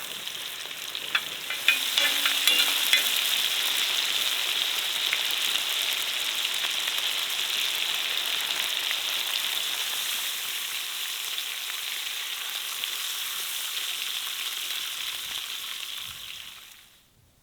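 Food frying in hot fat in a pan, a steady sizzle with scattered crackles in the first few seconds, fading out near the end.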